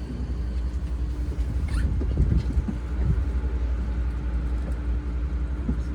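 Odakyu 4000-series electric train standing at a platform: a steady low rumble with a faint constant hum from its running equipment, and a few scattered short knocks.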